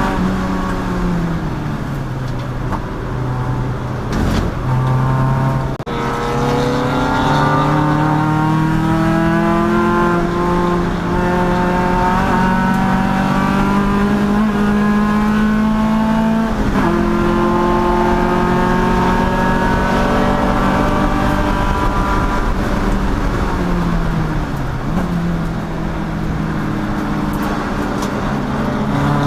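Race car engine running hard through a lap: its pitch falls under braking at the start, climbs slowly under acceleration, and drops suddenly about two-thirds of the way through as it shifts up. It falls again under braking shortly before the end, then picks up.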